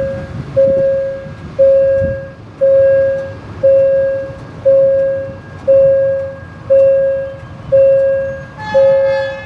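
Railway level-crossing warning bell dinging steadily about once a second, each ding fading before the next. A short horn toot sounds near the end.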